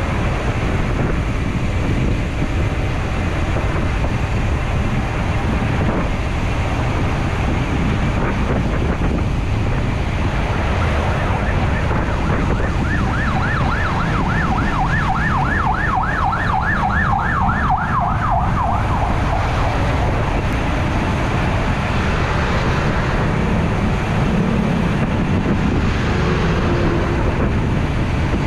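Steady road and wind noise on the move. From about 12 to 20 seconds in, an emergency-vehicle siren yelps, its pitch sweeping up and down rapidly, several times a second.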